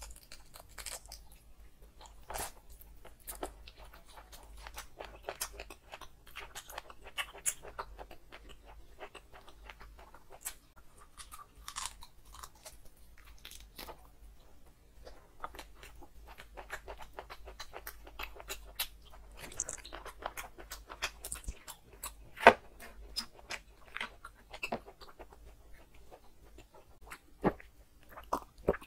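Close-up chewing and crunching as a person bites and gnaws curried meat on the bone, with many short sharp crunches and wet mouth sounds. One crunch about three-quarters of the way through is much louder than the rest.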